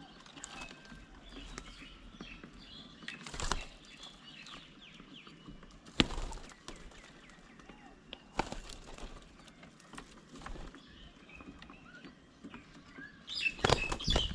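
Birds' wings flapping at a bird table in a few short flurries as they land and take off, the loudest flurry near the end. There is a sharp tap about six seconds in, and faint bird chirps in between.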